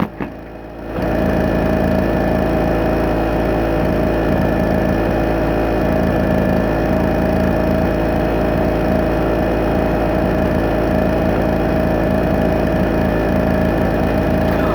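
Small two-stroke generator engine running steadily at constant speed, dipping briefly in level at the start and then holding even.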